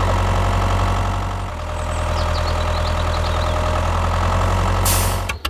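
Tractor engine idling steadily. Its sound shifts slightly about one and a half seconds in and cuts off abruptly just before the end.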